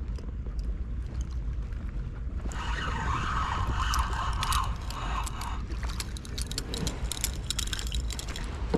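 Wind rumbling on the microphone throughout. From about two and a half seconds in there is a rush of splashing with rapid clicks and rattles as a small speckled trout is brought in and landed on the kayak.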